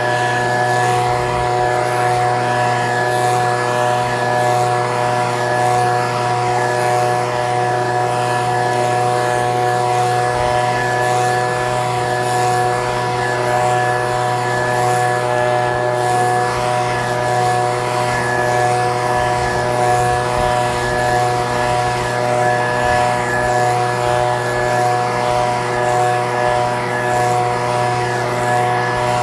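Echo PB-2620 handheld leaf blower's small two-stroke engine running steadily at a constant speed, with an even engine note that neither rises nor falls.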